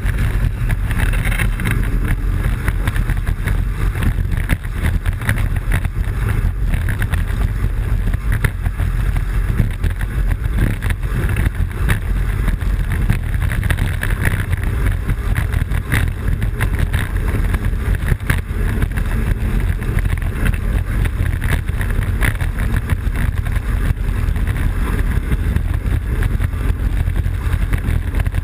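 Wind buffeting the microphone of a camera mounted on a Blokart land-sailing kart running fast, with the steady rumble of its wheels rolling and small rattles and knocks throughout.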